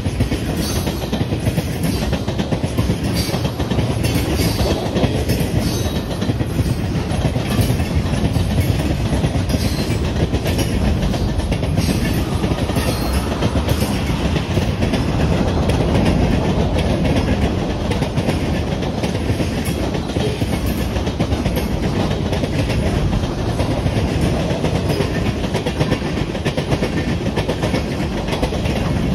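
Railcars rolling steadily past at close range: a continuous rumble of wheels on rail with fast, even clicking over the rail joints.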